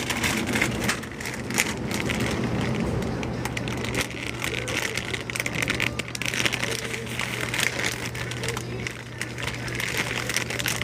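Shop ambience: a steady low hum that gets louder about three seconds in, under frequent light rustling and clicking from handling things.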